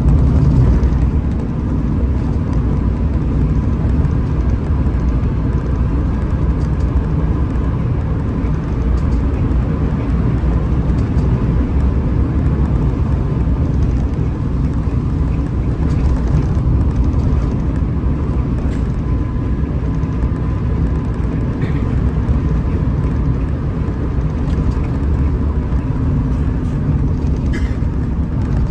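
Hino RM 280 bus on the move, a steady low drone of engine and road noise that holds constant throughout.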